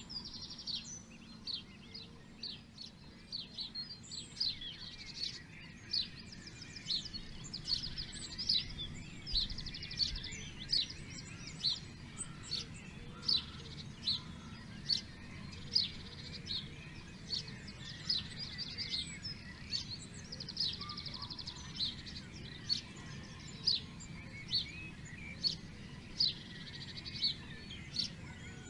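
Songbirds chirping and trilling: many short, high calls roughly a second apart, with rapid trills now and then, over a steady low background hum.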